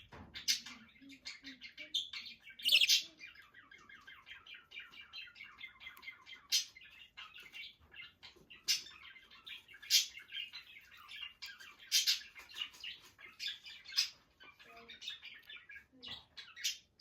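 Pet bird twittering in a steady stream of rapid chirps, with louder sharp calls breaking through every couple of seconds.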